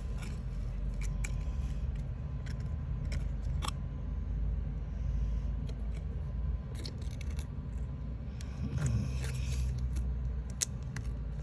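Card model pieces being handled and worked: scraping and rustling with scattered small clicks.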